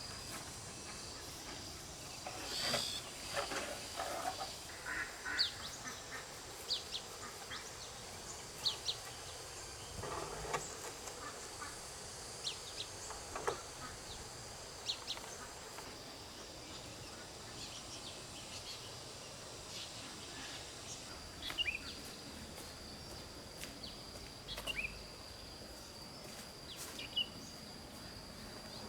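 Farm poultry calling, with many short, high chirps scattered through and a faint steady high tone underneath.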